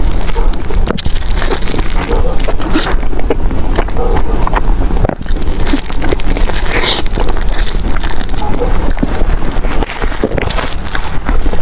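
Loud close-miked eating sounds: wet chewing and squishing of soft desserts, full of small clicks and crackles.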